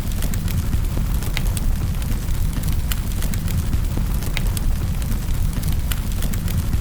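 Wood fire burning in a fireplace: a steady low rumble of the flames with frequent sharp crackles and pops of the burning wood, several a second at irregular intervals.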